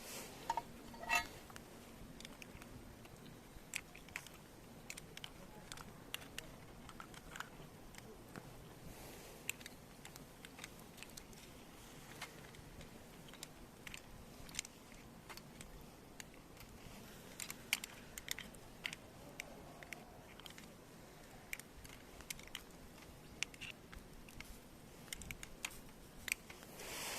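Wood campfire crackling, with irregular sharp snaps and pops scattered over a faint steady hiss. A short high chirp sounds about a second in.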